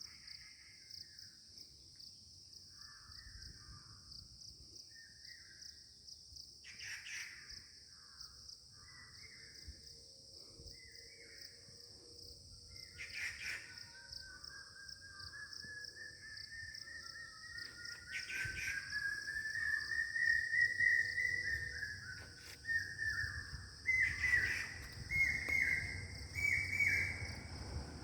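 Outdoor birdsong over a steady high-pitched buzz: short cawing calls in the first half, then a bird calling in a long run of repeated notes that climb higher in pitch and louder, from about halfway to near the end.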